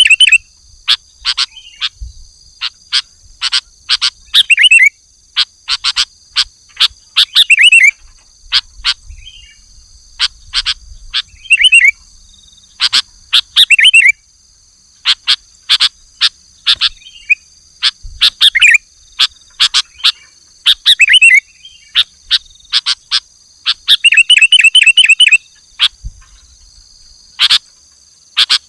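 Sooty-headed bulbul (kutilang) calling loudly and repeatedly, the aggressive calling used to challenge a rival. Short sharp notes and quick rippling phrases come every second or so, with brief gaps between, over a steady high buzz.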